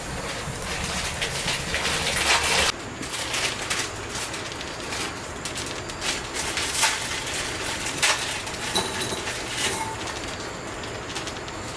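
Hot water pouring steadily for about three seconds and cutting off sharply, then a few light clicks and knocks of a bowl and utensils.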